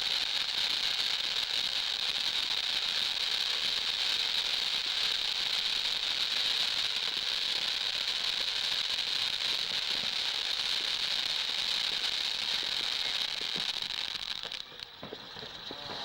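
Firework fountain spraying sparks with a steady, loud hiss that dies away about a second and a half before the end.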